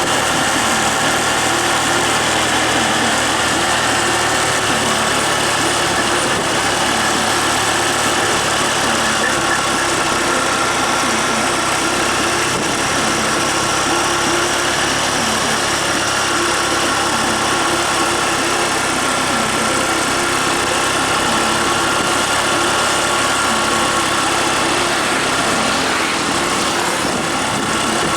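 Engine of a large road vehicle running steadily at close range, at an even pitch throughout.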